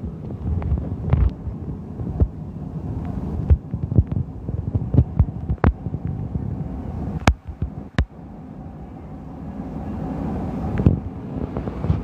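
Low, steady rumbling store ambience with scattered sharp clicks and taps of things being handled while browsing. The two sharpest taps come about seven and eight seconds in.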